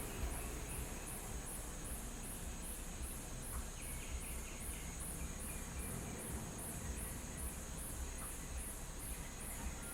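Crickets chirping in a steady rhythm, about three high chirps a second, over a low rumble.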